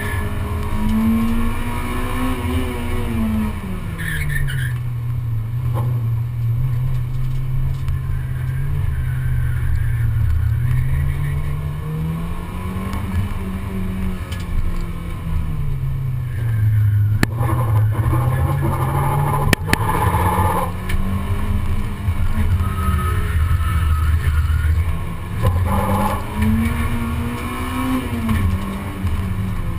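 Honda Civic race car's engine heard from inside the cabin, running hard with its pitch rising and falling again and again as the driver accelerates and lifts.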